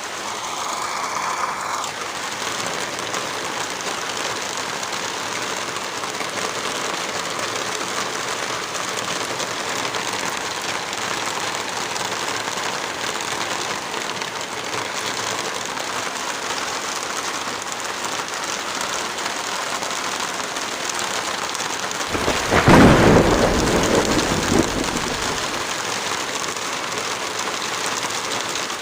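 Heavy rain falling steadily. About three quarters of the way through, a low rumble of thunder swells and fades over a few seconds.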